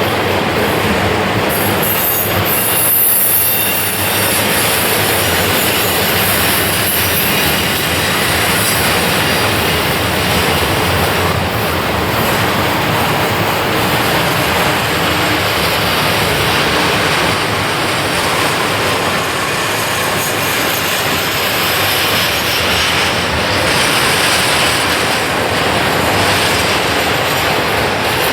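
Freight train cars rolling steadily past on a tight curve, wheels clattering over the rails, with high-pitched flange squeal at times.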